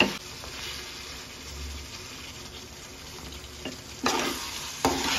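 Fish curry frying in mustard oil in a pan, a steady sizzle. About four seconds in, and again near the end, a metal slotted spatula scrapes through it.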